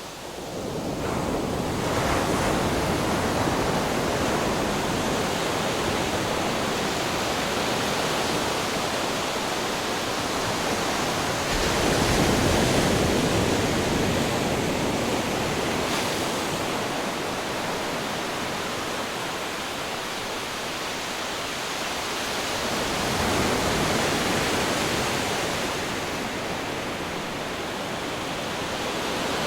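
Ocean waves crashing against rocks: a continuous wash of surf that swells as a wave breaks about three times, roughly ten seconds apart.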